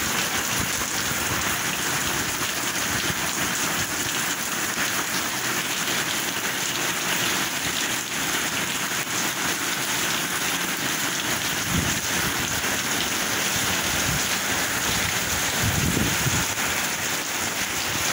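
Heavy rain pouring onto a paved street, a steady, dense hiss, with two brief low thumps, one about two-thirds of the way through and one near the end.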